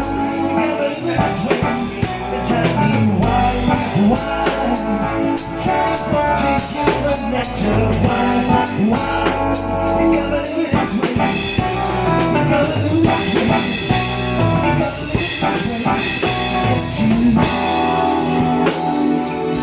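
A band playing, with a drum kit keeping the beat under pitched instruments.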